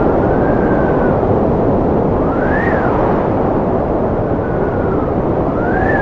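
Strong wind blowing steadily, a dense rushing noise with faint whistling tones that rise and fall several times.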